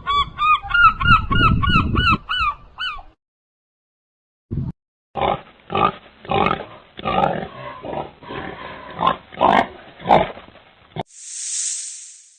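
Animal calls: a quick run of repeated pitched honking calls, about four a second, for the first three seconds, then after a short pause a series of short grunts, and a brief hiss near the end.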